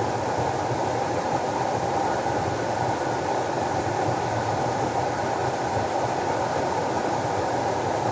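Water rushing steadily: a deep, even, unbroken rush with no splashes or breaks.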